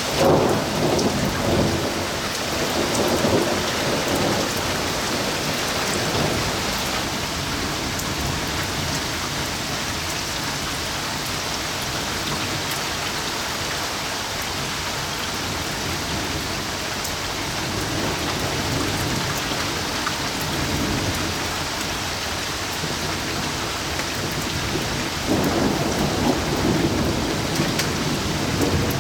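Steady rain falling in a thunderstorm, with thunder rumbling in the first few seconds and again near the end.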